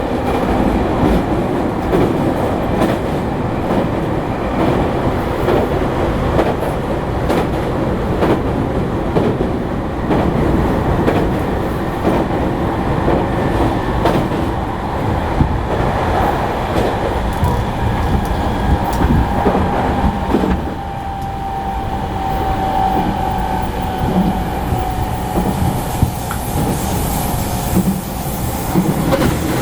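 Running noise heard inside a motor car of a JR East E217-series electric train at speed: wheels rumbling and clacking over the rails. A thin steady whistling tone comes in for several seconds a little past the middle.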